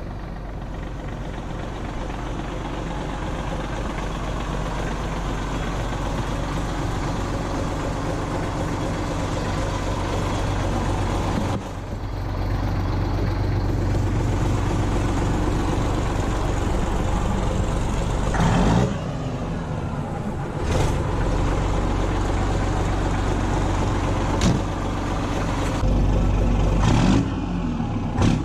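Sisu M-162 heavy truck's Rolls-Royce diesel engine running through straight pipes, a steady low exhaust note that grows louder over the first dozen seconds. The note dips briefly around twelve and nineteen seconds in, with a few short sharp sounds near the end.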